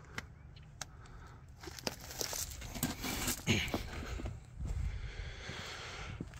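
Footsteps of a person walking on rough ground, irregular and uneven, starting about a second and a half in, over a low steady rumble.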